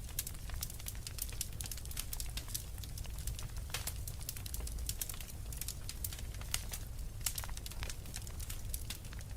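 Wood fire crackling: frequent irregular sharp snaps and pops over a steady low rumble of the burning fire.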